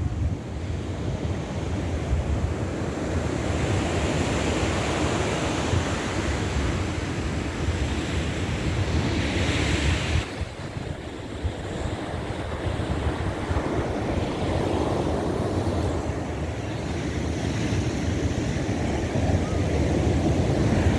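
Ocean surf breaking and washing up the beach, with wind rumbling on the microphone. One wash swells to a loud hiss about ten seconds in and then falls away suddenly.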